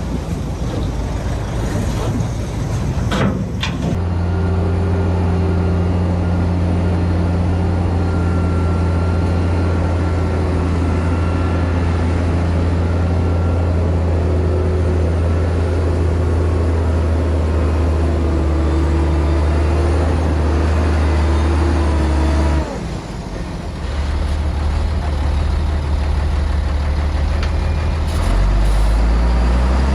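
Heavy diesel earthmoving engine running steadily under load. A rough rumble with a sharp knock comes first, then a steady low drone settles in. The drone dips briefly about three-quarters through and shifts pitch near the end.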